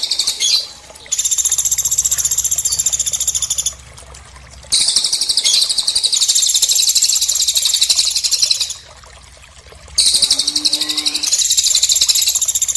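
A bird giving long, very rapid, high-pitched trills, three runs of about three to four seconds each, separated by short pauses. A faint, lower pitched call is heard briefly about ten and a half seconds in.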